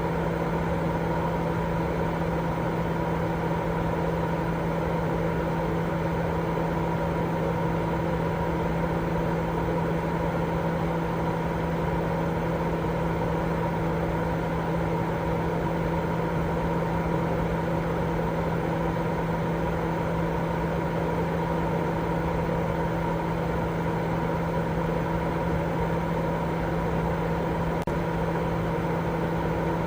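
Continuous sleep-aid white noise: a steady, unchanging rush weighted toward the low end, with a constant low hum running through it.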